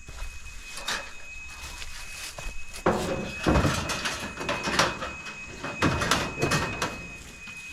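Scrap metal being handled and loaded into a pickup truck bed: a series of clanks, knocks and scrapes of metal pieces against each other and the bed, the loudest about three seconds in and again around five and six seconds.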